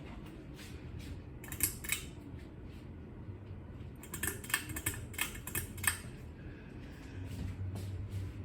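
Harbor Breeze Armitage 52-inch ceiling fan running with a low, steady hum. Short bursts of clicking and rattling break in twice: briefly about a second and a half in, then more densely from about four to six seconds in.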